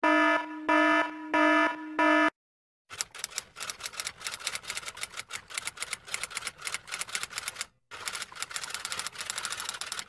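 Sound effect of four short electronic beeps in quick succession, then, after a brief pause, a long run of rapid typewriter-style key clatter, many strikes a second, broken once by a short gap near the end.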